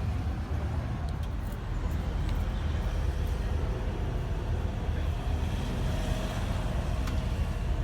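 SEAT Leon Cupra 300 being driven: a steady low rumble of engine and road noise.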